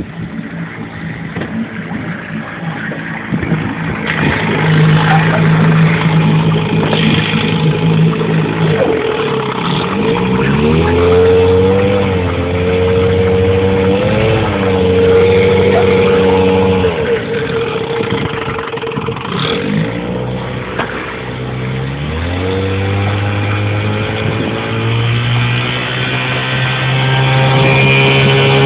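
1975 Evinrude 6 hp two-stroke outboard motor running under way on a small jon boat. Its pitch climbs about ten seconds in and holds steady, sags for a few seconds past the middle, then climbs again and settles as the throttle is worked.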